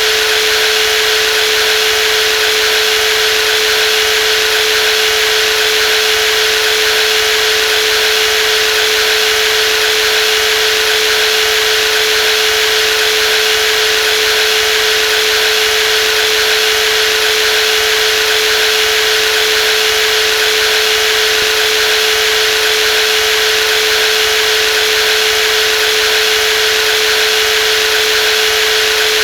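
Brushless jigsaw running steadily, a constant whine over an even hiss that does not change in speed or level.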